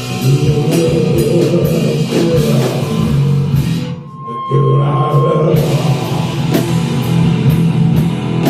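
Live rock band playing heavy, loud music on electric guitar and drum kit. About four seconds in the band stops briefly, a single high held tone sounds, and then the band crashes back in.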